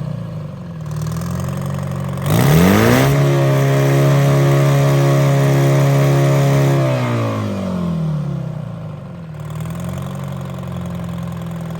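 Detroit Diesel 4-53 two-stroke diesel engine being revved. It settles to idle, is opened up sharply about two seconds in and held at a steady high speed for about four seconds, then slows back down to idle.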